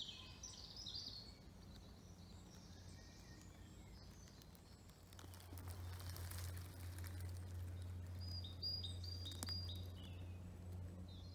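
Faint woodland birdsong: short high chirping phrases near the start and again about nine seconds in, over a low steady hum.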